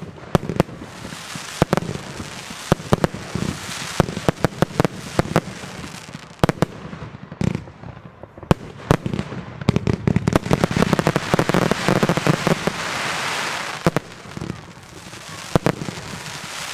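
China Red's Bulldozer consumer firework going off: a quick run of sharp bangs over a crackling hiss. The crackle thickens into a dense, steady stretch a little past the middle, then thins back to single bangs near the end.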